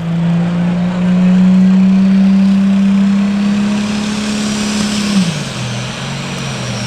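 Turbocharged diesel engine of a Light Pro Stock pulling tractor running flat out under load down the track, its pitch edging upward with a rising turbo whine above it. About five seconds in the revs drop sharply as the driver backs off.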